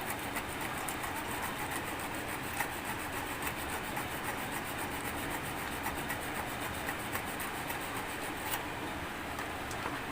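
Sandpaper rubbing quickly back and forth on a rice cooker's electrical contact, cleaning it.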